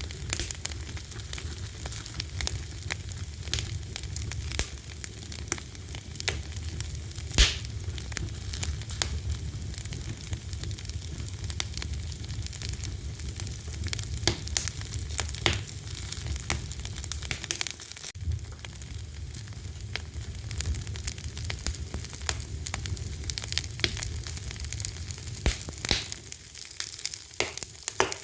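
Wood fire burning with a steady crackle and frequent small pops, one sharp pop about seven seconds in, over a low rumble of flame that fades away about halfway through.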